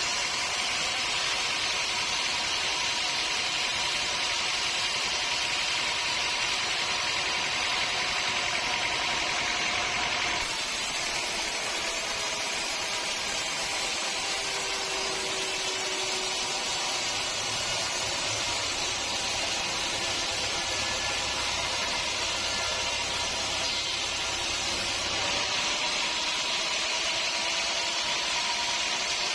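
Sawmill machinery running steadily: a continuous motor-and-saw noise with a faint whine, changing abruptly about ten seconds in.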